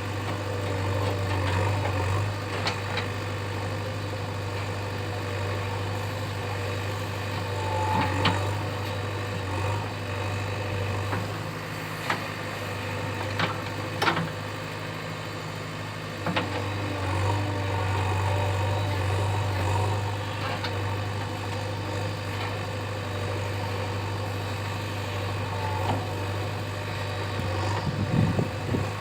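JCB 3DX backhoe loader's diesel engine running steadily at low revs, with several sharp knocks or clanks through it and a burst of rougher low rumbling near the end.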